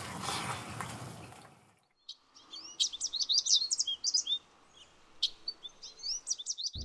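Small birds chirping: many quick, high calls, some sliding up or down in pitch, starting about two seconds in after the earlier sound fades to a brief silence.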